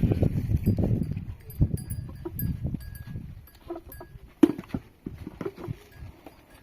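Small livestock moving about, their bells tinkling in short repeated rings, among shuffling knocks; one sharp knock about four and a half seconds in.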